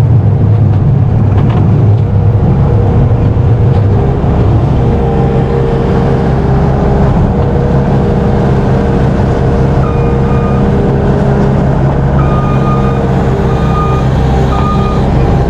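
Heavy farm machine's engine running steadily at a constant speed. From about ten seconds in, a high warning beep sounds on and off, a few half-second beeps, like a backup alarm.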